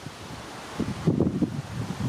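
Wind buffeting the microphone in irregular low gusts, growing stronger about a second in.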